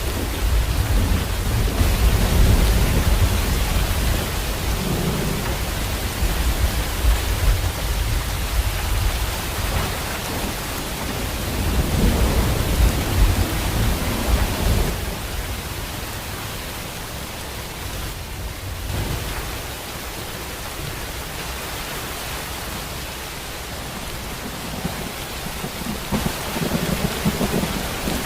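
Steady rain with rolling thunder. The low rumbles swell through the first half, ease off in the middle, and build again near the end.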